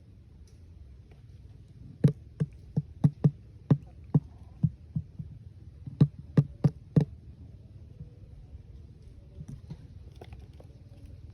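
A run of about fifteen sharp knocks in uneven succession, starting about two seconds in and stopping about seven seconds in, over a steady low rumble.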